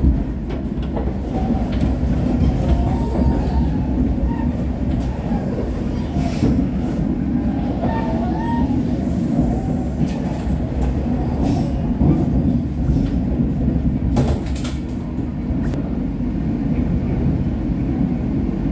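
Argo Cheribon passenger train running on the rails, heard from inside a coach: a steady rumble of wheels and carriage, with faint brief squeals and a few short knocks partway through.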